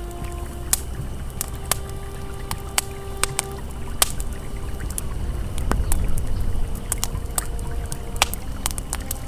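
Campfire crackling, with many sharp irregular pops, over the steady low rush of a flowing river. A few faint held tones come and go.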